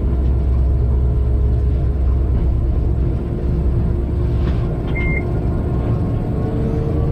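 Steady low rumble inside a freight locomotive's cab as the train runs along the line, with one short high beep about five seconds in.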